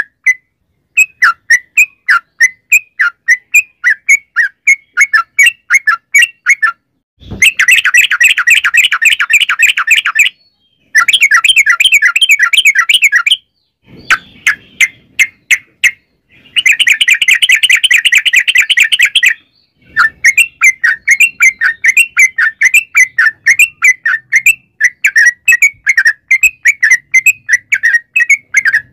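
Yellow-vented bulbul (trucukan) calling: a loud, steady series of short chirping notes about two a second, broken three times by long, rapid rolling trills, the "ropel panjang" used to lure other bulbuls into singing.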